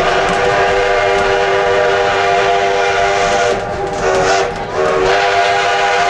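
Steam locomotive whistle of the Black Hills Central Railroad's 1880 Train blowing a long, loud blast; a little past the middle it dips and breaks briefly, then sounds again.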